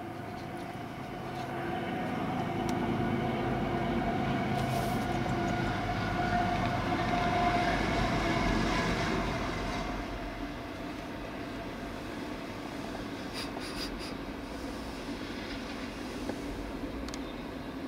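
CSX diesel freight locomotive passing at speed over a railway overpass, its engine sound building to a peak about eight seconds in. It is followed by the steady rolling noise of double-stack container cars, with a few wheel clicks.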